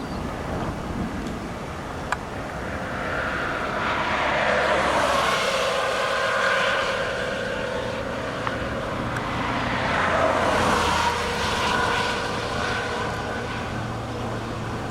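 Vehicles passing on the road: two swells of rushing tyre and engine noise with a steady whine, building and fading, about four seconds in and again about ten seconds in.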